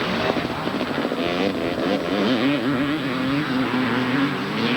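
Two-stroke 250cc motocross bike engines racing, the engine note rising and falling in pitch with throttle and gear changes.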